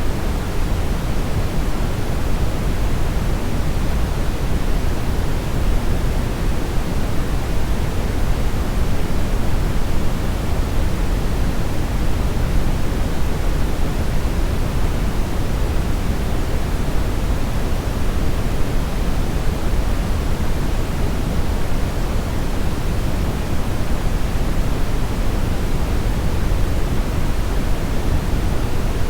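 Steady synthetic brownish noise: an even, unbroken hiss weighted toward the low end, with no events or changes.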